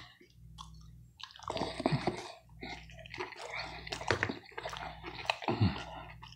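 Wet chewing of a piece of pan pizza crust, coming in irregular bursts, over a low steady hum.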